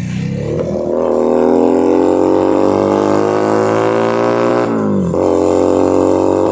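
Keeway SCR 250V motorcycle engine and exhaust under way, pulling through a gear with rising revs. It shifts up about five seconds in, with a sharp drop in pitch, and then pulls again.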